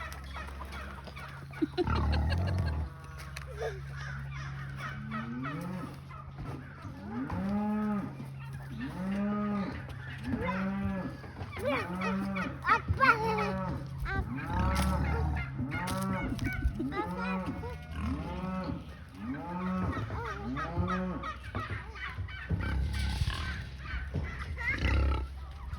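A farm animal calling over and over: about a dozen rising-and-falling calls, a little over a second apart, over a steady low hum.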